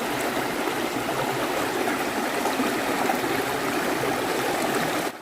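Stream water gushing steadily over rocks, an even rushing noise that cuts off abruptly just before the end.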